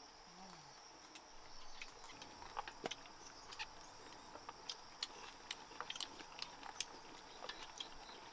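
People eating stir-fried chicken gizzards: faint crunchy chewing and scattered small clicks begin about two seconds in. A steady high insect drone sounds behind them.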